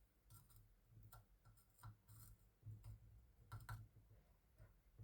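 Faint small clicks and scrapes of hand tools working on an LED bulb's parts, over a low steady hum.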